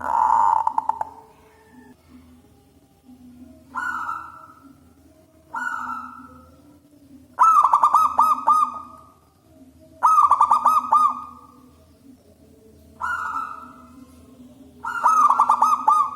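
Zebra dove cooing: seven loud call phrases a second or two apart. Some are short single coos; others are longer rolling coos with quick repeated notes. A steady low hum runs underneath.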